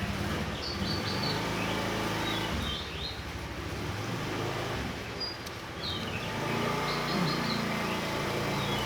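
A steady low engine hum runs throughout, with short high chirps from a small songbird breaking in every second or two.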